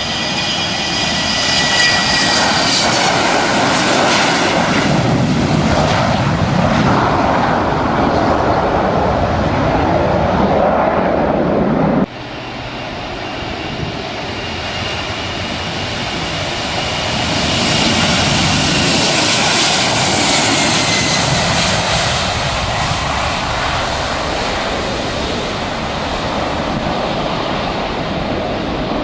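Airliner engines roaring with a high whine that falls in pitch as the plane goes by. The sound cuts off suddenly about twelve seconds in and is replaced by another passing airliner, whose whine again falls as it passes.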